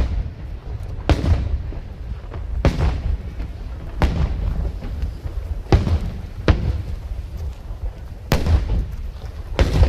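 Aerial fireworks bursting: about seven loud booms a second or two apart, over a continuous low rumble from the ongoing barrage.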